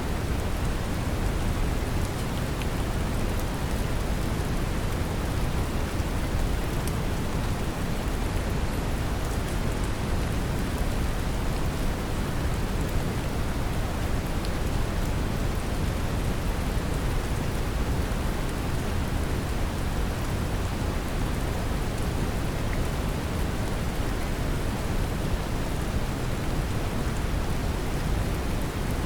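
Steady brown noise, deep and even, layered with gentle rain hiss and a few faint scattered drop ticks.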